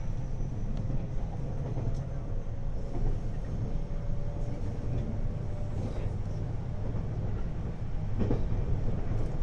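521 series electric multiple unit running between stations: a steady low rumble of wheels and running gear, with a few sharp knocks along the way.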